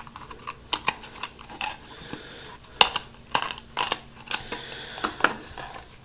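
Handling noises of a small die-cast model plane and its box: a string of small irregular clicks and knocks with a few brief rustles.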